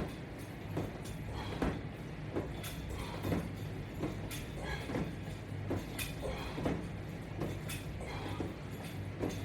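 Resistance-band exercise rig creaking or knocking in an even rhythm, about once a second, with each repetition of the exercise, over a steady low hum.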